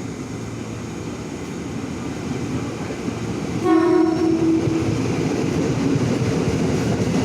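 KRL Commuterline electric commuter train running with a steady rumble; about three and a half seconds in its horn sounds once, a single held note for about a second, and the rumble grows louder from then on.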